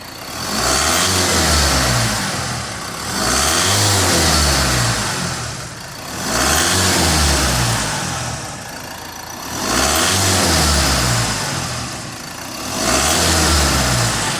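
2015 Ford Transit Custom's diesel engine revved five times from idle, each rev climbing and then dropping back to idle over about two to three seconds.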